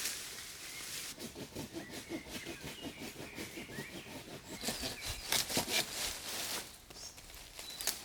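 Hand saw cutting through wood in a run of rhythmic back-and-forth strokes, louder and sharper a little past the middle and pausing briefly near the end. A small bird chirps faintly in the background.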